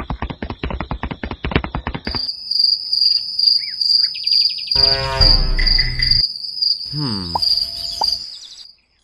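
A rapid run of clicks for about two seconds, then a steady high insect-like chirring. Over the chirring come a short pitched sound about five seconds in and a falling glide about seven seconds in.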